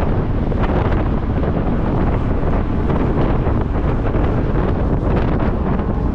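Heavy wind noise on the microphone: a loud, steady low rumble with brief gusts.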